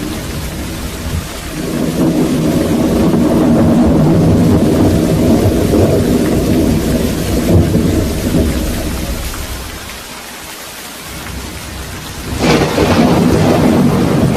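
Thunderstorm with steady rain: a long, deep rumble of thunder builds about two seconds in and dies away, then a sharper, louder thunderclap breaks out near the end.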